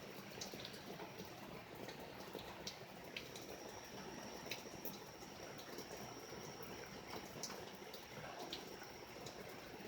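Rain falling and dripping during a thunderstorm: a steady soft hiss with scattered drip ticks, and a faint steady high tone behind it.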